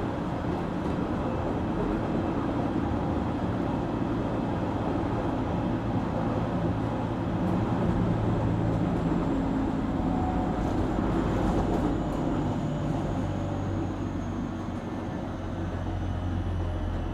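JR Kyushu 817 series electric train running, heard from inside the car: a steady rumble of the wheels and running gear on the rails. From about halfway, a faint high whine slowly falls in pitch. This unit is known for an unusual running noise, likened to the Keio 7000 series.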